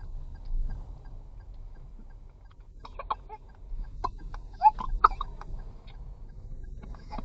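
Low steady rumble of the vehicle's engine and wind. From about three seconds in, a run of short, sharp calls and clicks cuts across it, the loudest just before the five-second mark.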